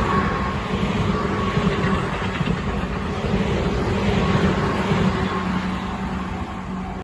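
A Tobu Tojo Line electric train passing, with a steady rumble of wheels on the rails and a faint high whine over it. The noise eases slightly near the end, then cuts off suddenly.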